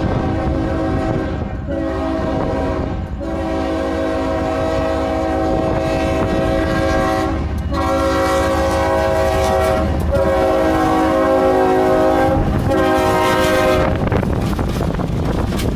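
Kansas City Southern locomotive 4776's air horn sounding a chord in five blasts, the middle two long, stopping about fourteen seconds in, over the steady low rumble of the diesel locomotive leading a loaded oil train.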